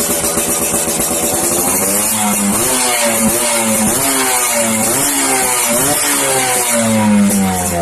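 Yamaha F1ZR two-stroke single-cylinder engine running through an RTX racing exhaust. It holds a steady pulsing beat for about two seconds, then is blipped up and let fall again and again, the pitch rising and dropping with each rev.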